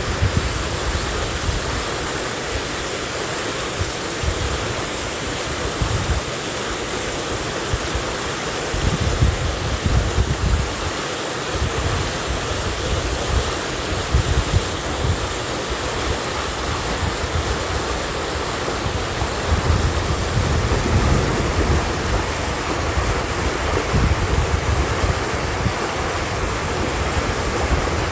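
Mountain stream rushing steadily, with irregular gusts of wind buffeting the microphone.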